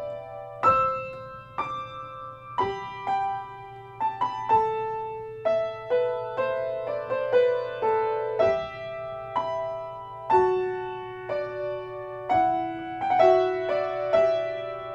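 Solo piano background music: a slow melody of single notes, each struck and left to ring out.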